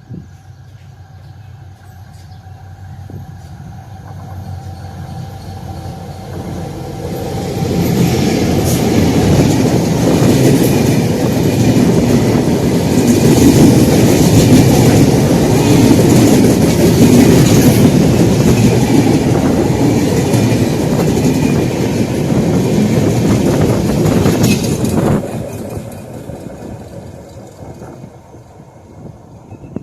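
Express passenger train behind a diesel locomotive passing close by at speed. The rumble swells over the first several seconds, stays loud with wheel-and-carriage noise for about seventeen seconds, then falls away quickly.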